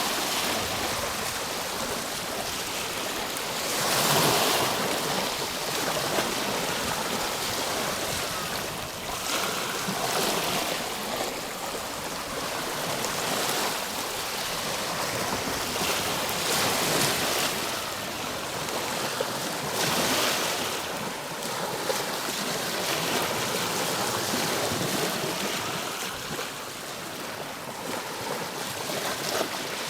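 Ocean waves breaking and washing on a shore, a steady rush of surf that swells with each wave every few seconds.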